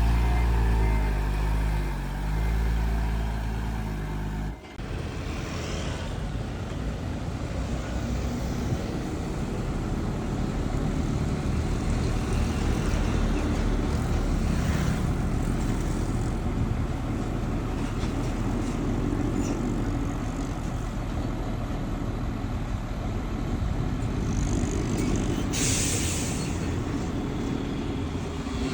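Heavy diesel engines of dump trucks and a bulldozer at work. A strong pitched engine drone for the first few seconds cuts off abruptly to a rougher, steady rumble, with a short air hiss near the end.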